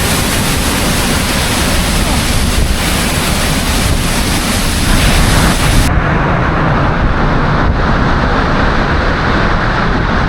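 Sgwd yr Eira waterfall roaring close by, a loud, steady rush of falling water, with wind and spray buffeting the microphone. About six seconds in, the hiss at the top of the sound cuts off suddenly and the rush turns duller.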